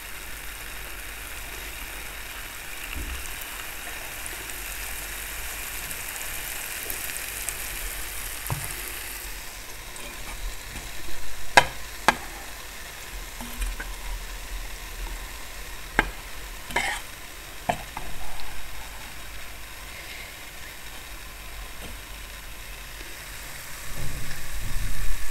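Jalebi sizzling steadily as they deep-fry in hot oil. About ten seconds in the sizzle gives way to a few sharp clicks and knocks of a spoon against the pan and plate as the fried jalebis are handled.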